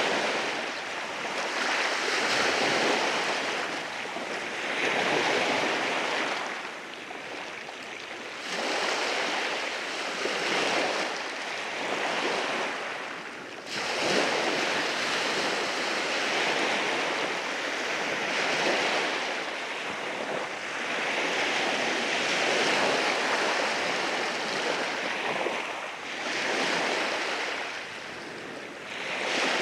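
Sea waves breaking and washing in over rocks on the shore, the surf swelling and ebbing every two to three seconds, with a sharper surge about halfway through.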